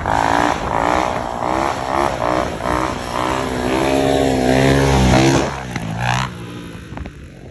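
Motorcycle engine revving hard, its pitch rising and falling, then climbing steadily before it drops off about five and a half seconds in.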